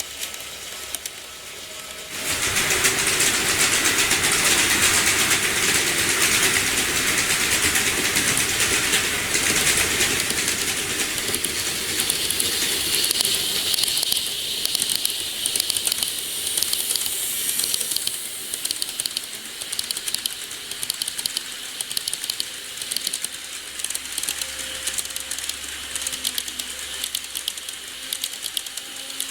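Model train running on its track, its wheels clicking rapidly over the rail joints with a hissing rumble. It gets much louder about two seconds in as it passes close, then eases off and keeps running more quietly.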